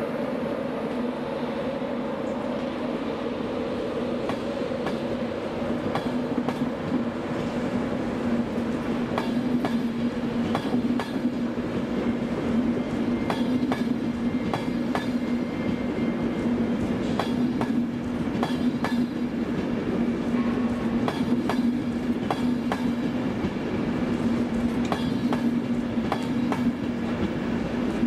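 LNER passenger train rolling past along the platform: a steady hum, with the wheels clicking over rail joints. The clicks begin about eight seconds in and run on through the rest.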